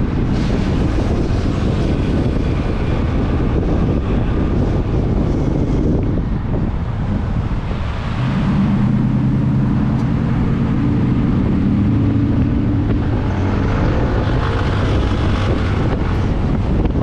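Motorcycle riding at speed: steady wind rush on the microphone with the engine running underneath. From about eight seconds in, a steady low engine note comes through more clearly.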